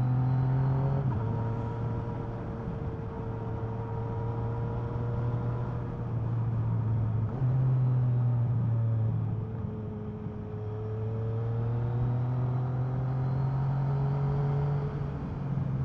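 Motorcycle engine running under way through tight bends, its pitch rising and falling with a few sudden steps, over steady wind and road rush.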